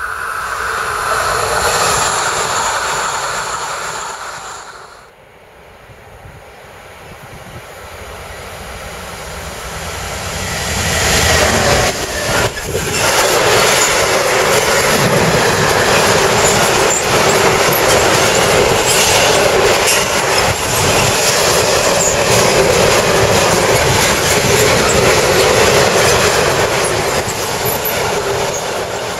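An electric multiple-unit passenger train approaching and passing, its noise rising and then fading away within the first five seconds. Then a long freight train of covered sliding-wall wagons running past at speed, building up over several seconds into a steady loud noise of wheels on rails with rapid clicks over the rail joints.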